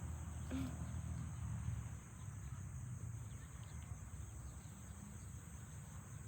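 A steady, high-pitched insect drone over a low rumble.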